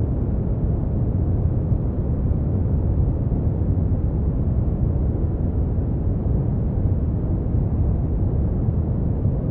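Brown noise: a steady, even, deep rumbling hiss with most of its energy in the low end, unchanging throughout.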